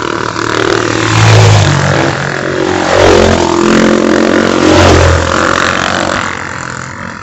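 Motorcycle engines running loud and being revved up and down several times, the sound dying away toward the end.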